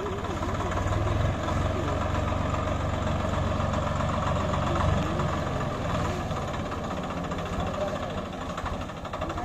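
Swaraj 744 FE tractor's three-cylinder diesel engine running steadily with a deep, even rumble that is heaviest in the first half and eases off after about five seconds.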